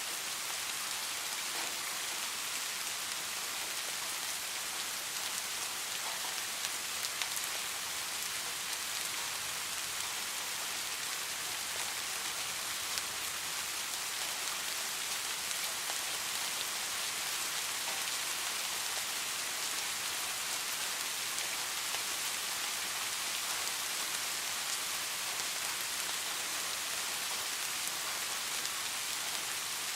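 Steady rain falling, an even hiss with fine raindrop ticks, unchanging throughout.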